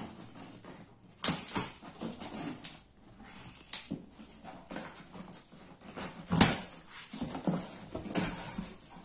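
Cardboard box being opened and handled: irregular knocks and rustles, with sharp knocks about a second in and again past six seconds.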